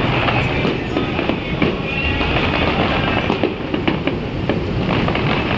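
Aerial fireworks display going off in a rapid, continuous barrage of bangs and crackles, with no break.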